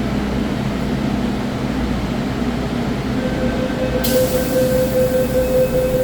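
MTR M-train subway train: a steady low rumble, joined about three seconds in by a steady mid-pitched tone and, a second later, a sudden hiss of air.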